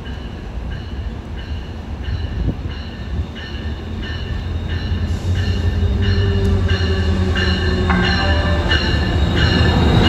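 Metrolink diesel locomotive arriving at a station platform, its bell ringing steadily about twice a second. The engine and wheel rumble grow louder over the second half as the train draws up close.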